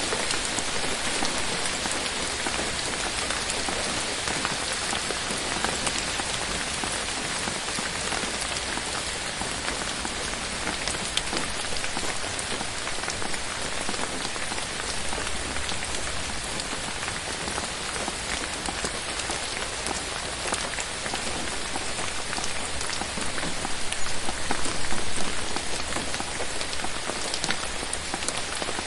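Steady rain falling on forest leaves, a dense even patter of many drops that swells a little louder near the end.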